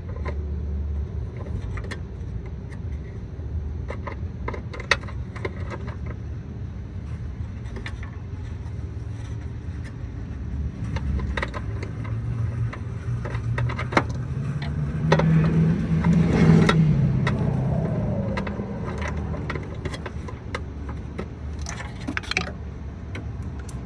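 Scattered clicks and clinks of hand tools and a socket on metal, over a steady low hum. A vehicle passes, loudest about two-thirds of the way through, its pitch dropping as it goes by.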